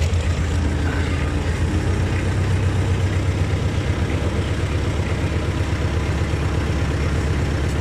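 T-40 tractor's air-cooled two-cylinder diesel engine running steadily with an even low throb.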